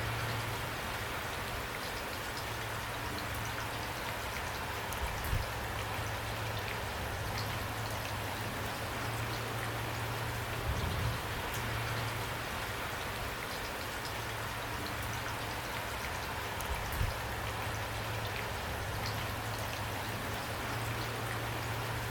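Steady rainfall, an even hiss of rain with individual drops ticking through it. There is a steady low hum underneath and a few brief low thumps, about five, eleven and seventeen seconds in.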